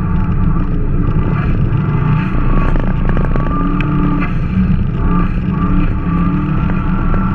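Subaru boxer engine heard from inside the cabin, its revs rising and falling again and again as the car is power-slid sideways on snow.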